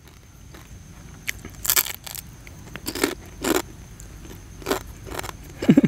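Someone biting and chewing grilled rice-field crab, the shell giving about six short, crisp crunches.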